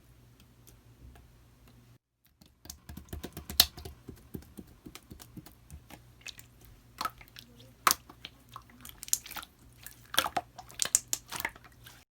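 Clear slime with purple pearl pigment worked by hand, giving a dense run of irregular sticky clicks and pops. It starts about two seconds in, after a faint steady hum, and cuts off abruptly near the end.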